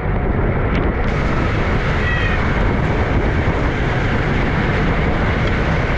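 Wind rushing over the microphone at racing speed, a steady loud rushing noise, with a couple of faint high squeals about two seconds in.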